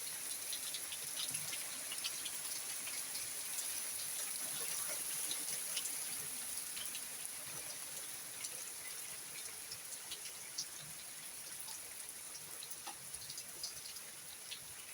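Steady rain mixed with hail: an even hiss with many small scattered ticks, easing off slightly near the end.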